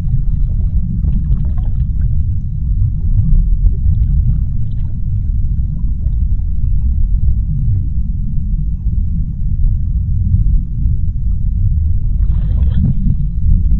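Underwater sea ambience: a steady deep rumble with faint scattered crackles, and a short brighter burst of crackling noise near the end.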